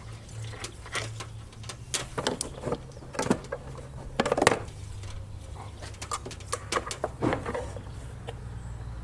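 Scattered light clicks and knocks of hands handling a voltmeter and its test leads, over a steady low hum.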